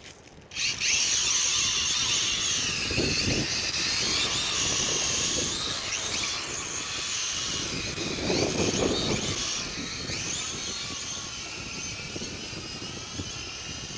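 Mould King Super X toy quadcopter's motors and propellers whining, several pitches wavering up and down as the motors speed up and slow down against the wind; it comes in suddenly about half a second in. Gusts of wind rumble on the microphone about three and eight seconds in.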